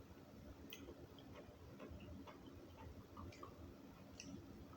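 Near silence: room tone with faint, irregular small clicks scattered throughout.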